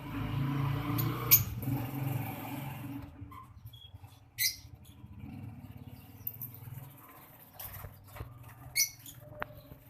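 Lovebirds giving a few short, sharp high-pitched calls, the strongest about three and a half seconds in and again near the end, over a low steady hum. The first three seconds are louder, with a rumble and a single sharp click.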